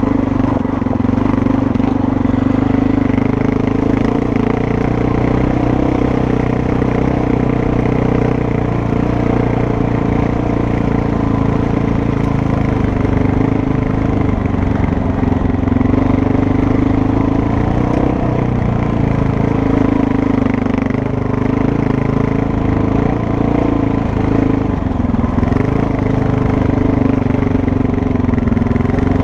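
Dual-sport motorcycle engine running under way, loud and continuous, its pitch wavering up and down with the throttle.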